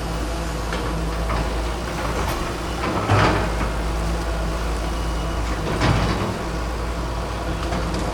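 Excavator's diesel engine running steadily, with two sharp crunching knocks, one about three seconds in and one about six seconds in.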